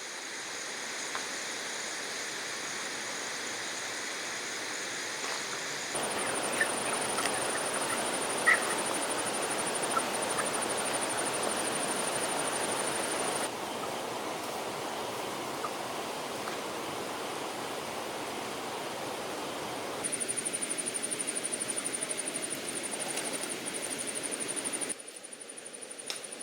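Outdoor natural ambience: a steady rushing noise with a high, rapidly pulsing trill in parts, made of several spliced clips that change abruptly about every six seconds.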